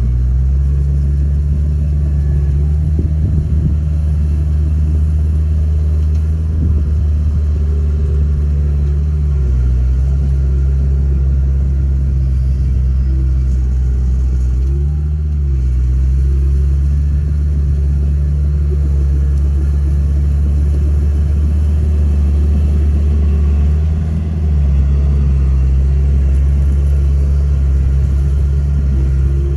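Komatsu D31A bulldozer's diesel engine running steadily at working revs, a low drone. Its pitch shifts briefly about nine seconds in, again about halfway through and again near the end, as the load changes.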